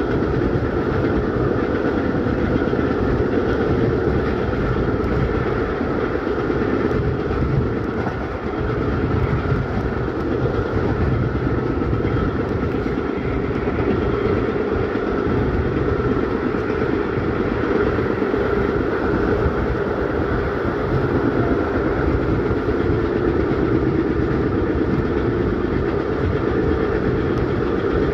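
Historic train of Centoporte passenger carriages in motion, heard from aboard: a steady, unbroken rumble of wheels running on the rails.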